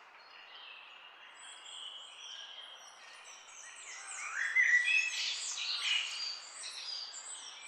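Small songbirds chirping and twittering in a busy jumble of short, quick notes and sliding whistles over a faint background hiss. It grows louder and busier about halfway through.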